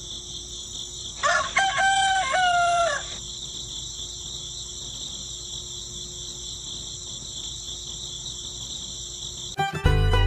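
A rooster crowing once, about a second in, over a steady high chirring of crickets. Fiddle music starts near the end.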